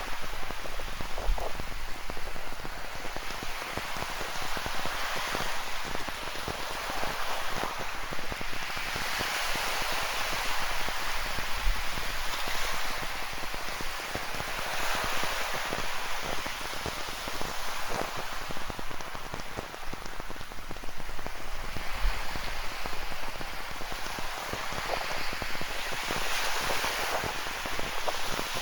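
Steady rain falling, with many close drop hits, over ocean surf that swells and washes in every few seconds.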